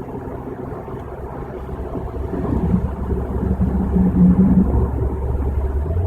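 Car road and engine noise heard inside the cabin at highway speed: a steady low rumble that grows louder about a third of the way in, with a low drone for a couple of seconds in the middle.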